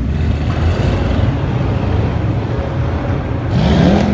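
Sports car engines running slowly past with a steady low rumble; near the end one revs up and its pitch rises.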